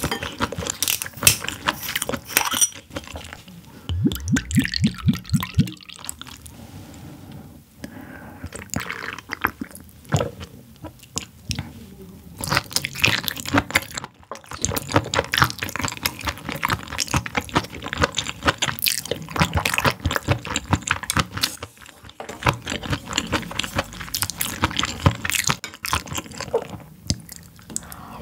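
Close-miked wet chewing and slurping of boiled sea anemone and spicy stew, with many quick clicking smacks of the mouth.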